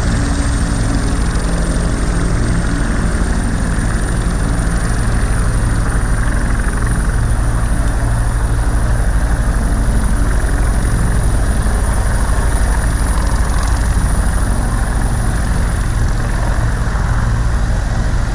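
Helicopter running close by: steady rotor and engine noise with a low throb and a thin high turbine whine that edges up slightly in pitch over the first few seconds.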